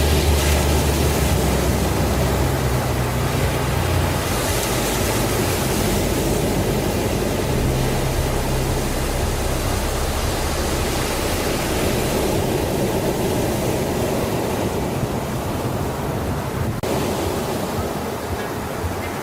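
Steady rushing noise like surf or a downpour, with a low sustained drone underneath that shifts pitch every few seconds.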